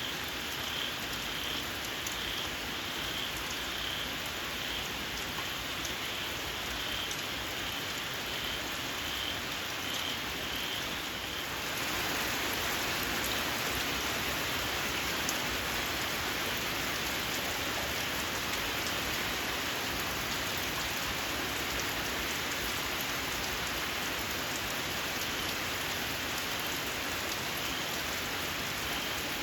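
Steady rain with a small frog calling in a series of short, shrill chirps, about three every two seconds. About twelve seconds in the rain grows louder and drowns the calls, which come back faintly near the end.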